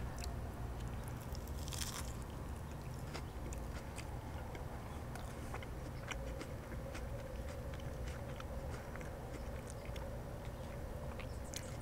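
Close-miked chewing of a mouthful of soft-tortilla taco boat filled with ground beef, sour cream, salsa, avocado and lettuce: a run of small mouth clicks.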